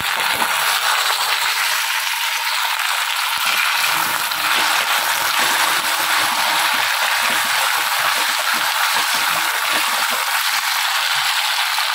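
Raw elephant foot yam pieces frying in hot oil in a kadai tempered with mustard seeds and cumin: a steady loud sizzle with fine crackling throughout.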